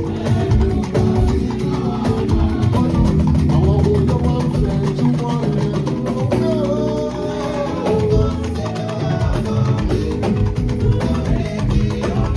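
Live band music with guitar and a steady percussion beat, and a voice singing over it.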